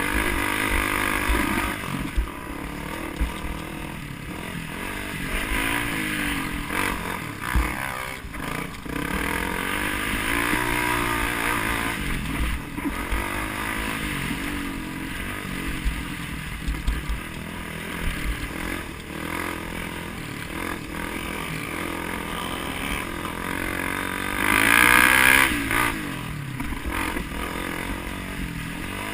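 A vehicle engine revving up and down over and over, with its pitch rising and falling in repeated sweeps. It is loudest for about two seconds near the end, and there are a few short sharp knocks along the way.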